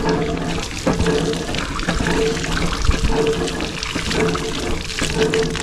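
Water pump being worked, with fresh water gushing and splashing out in surges about once a second.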